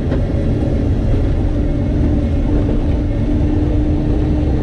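Car engine running steadily with a low rumble, joined by a steady tone about a second and a half in.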